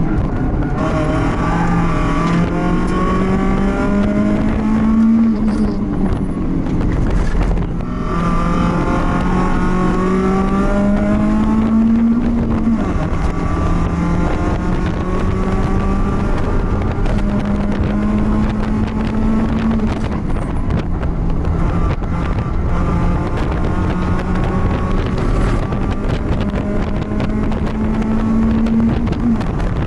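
BMW race car engine running hard under acceleration and gear changes, its pitch climbing and dropping back about four times.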